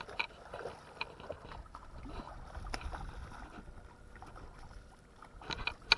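Water moving against a small fishing boat, with scattered small clicks and knocks of handling gear aboard.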